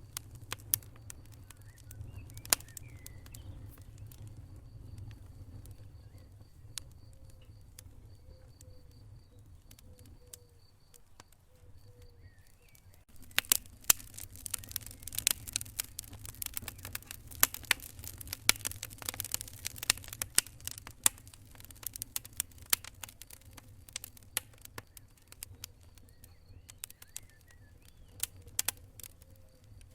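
Wood fire burning in a fireplace: a steady low rumble of flames with sharp crackles and pops, which grow dense and loud for several seconds in the middle.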